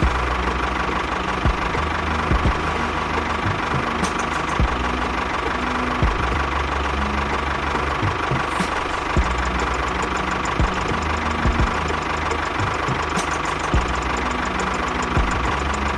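Small engine running steadily, with a low rumble that comes and goes and irregular sharp knocks throughout.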